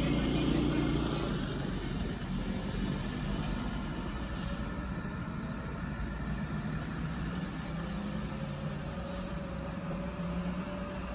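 Heavy truck engine running steadily, with short high hisses about every four seconds.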